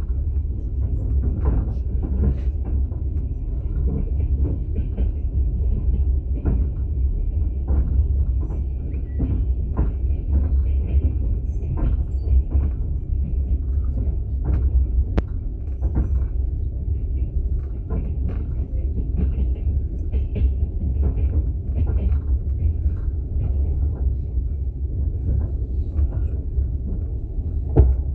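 Steady low rumble of a moving passenger train heard from inside an open-plan sleeper carriage, with scattered knocks, clicks and rattles from the wheels and the carriage.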